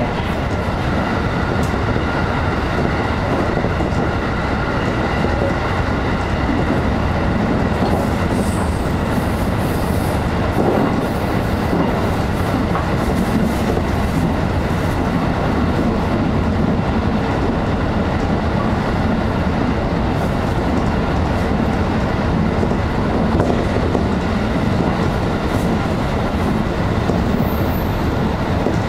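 Electric commuter train running at speed, heard from just behind the cab: a steady rumble of steel wheels on rail with faint clicks over rail joints and a steady hum. Two brief high squeaks near the end.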